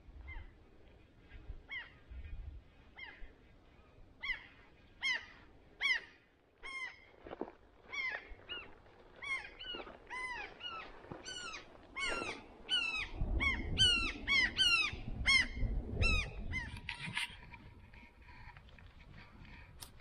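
A bird calling: a long series of short, pitched calls, each falling in pitch, coming faster and louder and then breaking off near the end. A low rumble runs under the loudest stretch of calls.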